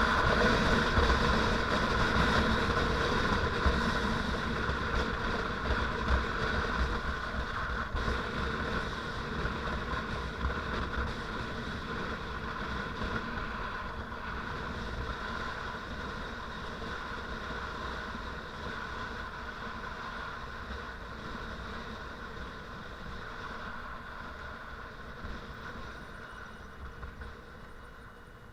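Motorcycle engine running steadily while riding, gradually getting quieter over the whole stretch.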